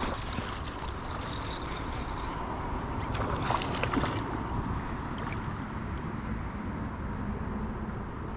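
Water splashing and dripping around a kayak, with a few sharp clicks about three to four seconds in, over a steady low wind rumble on the microphone.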